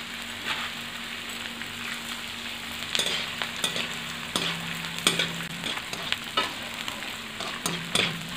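Pieces of gond (edible gum) frying in hot ghee in a kadhai, a steady sizzle as they puff up while roasting on medium heat. From about three seconds in, a metal spoon scrapes and taps against the pan as the gond is stirred.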